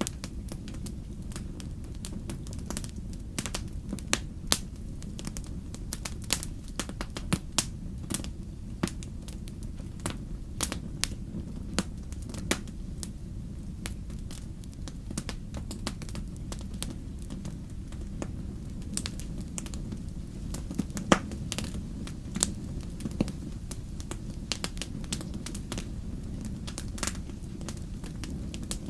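Wood fire crackling, with irregular sharp pops and snaps over a steady low rumble of burning. The loudest pop comes about two-thirds of the way through.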